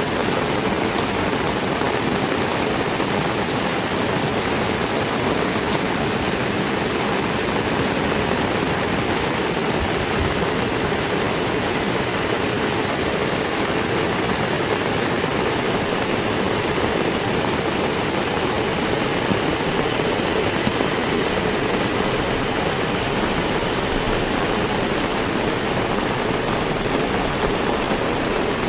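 Heavy rain falling steadily: an even, dense hiss with no let-up.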